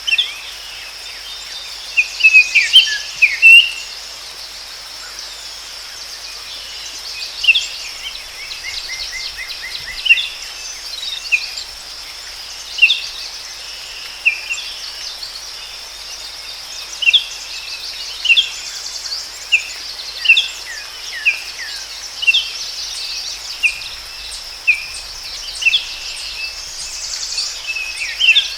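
Forest ambience: a steady, high-pitched drone of insects, with songbirds giving short chirps every second or so and a quick trill of repeated notes about nine seconds in.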